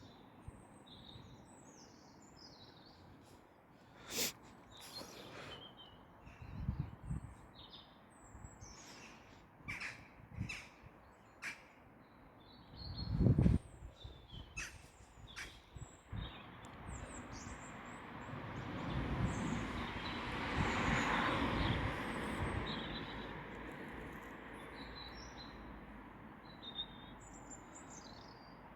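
Outdoor ambience with birds calling: crows cawing and small birds chirping on and off. A few short knocks and one loud low thump about halfway through, then a broad rushing noise swells up and fades away again, not a train.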